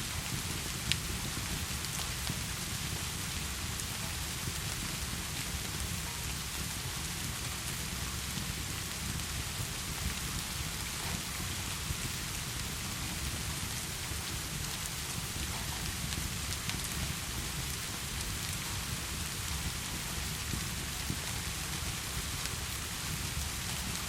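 Steady heavy rain with a low rumble beneath it, and a few faint sharp crackles from a wood fire, one louder about a second in.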